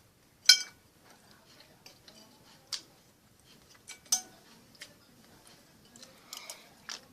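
Cutlery clinking against a plate during a meal: a handful of separate sharp clinks, some with a short ringing tone. The loudest comes about four seconds in.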